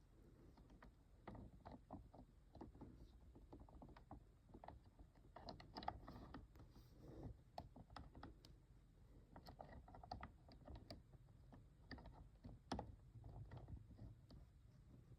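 Faint, irregular clicks and taps of small plastic toy parts being handled and fitted back together, with a few sharper knocks about six seconds in and again near the end.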